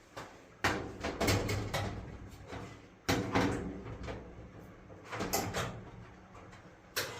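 Sheet-metal dryer parts being handled and fitted during reassembly: knocks, clattering and scraping in three bouts, then a sharp click near the end.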